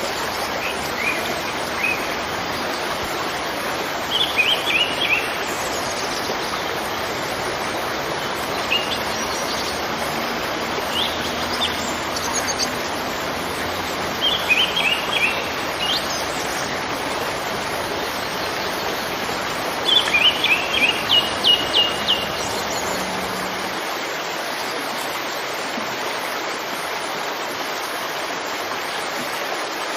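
Steady rushing of a waterfall, with a songbird singing short bursts of quick high chirps four or five times, the longest string about twenty seconds in.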